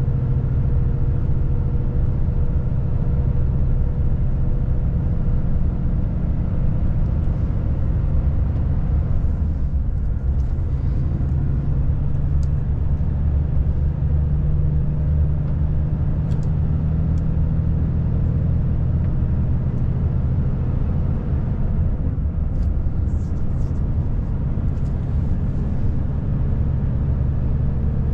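Volvo FH540 truck's 13-litre straight-six diesel running steadily on the road: a continuous low drone over road noise, its pitch rising slightly about halfway through. A few faint clicks come in the second half.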